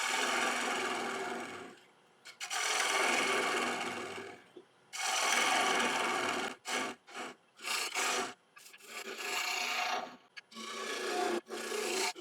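Gouge cutting into spinning sycamore on a wood lathe, hollowing out the bottom of a deep bowl: a series of rasping cuts about two seconds each with brief pauses between, turning into shorter, choppier passes from about the middle on.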